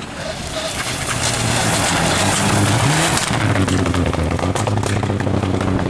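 Rally car driven hard on a stage, its engine at high revs with a loud hiss of tyre and stone noise. The engine note dips and climbs again about three seconds in.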